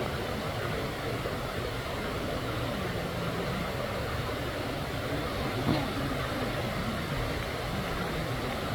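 Waterfall running: a steady rush of falling water, with one short knock about two-thirds of the way through.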